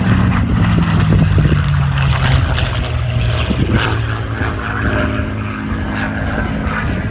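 TF-51 Mustang's Rolls-Royce Merlin V-12 engine running loud in flight. Its drone falls in pitch over the first couple of seconds as the plane goes by, then holds steady.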